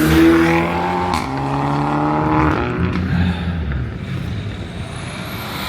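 Car engine accelerating as a car drives off: its note holds, then climbs after about a second and fades away midway. A short sharp crack comes as the note starts to climb.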